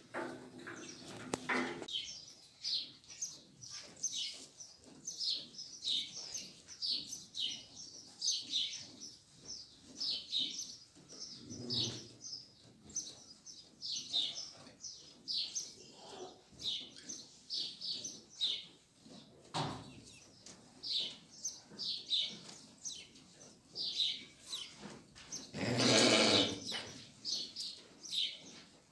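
Small birds chirping all through, several short high chirps a second. A louder burst of noise lasting about a second comes near the end.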